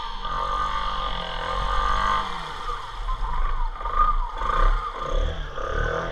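Small snorkel-fitted motorbike engine running under load, its pitch rising and falling as the throttle is worked.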